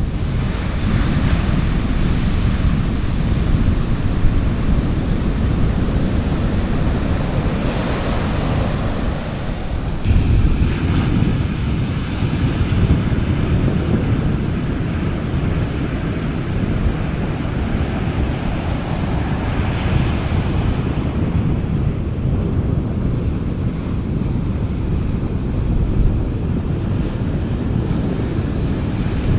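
Small sea waves breaking and washing up a beach, swelling and fading every several seconds, over a steady low rumble of wind on the microphone.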